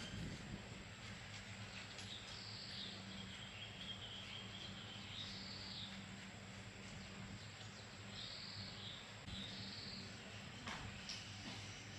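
A bird calling in short warbling phrases, about four times, over a faint steady low hum.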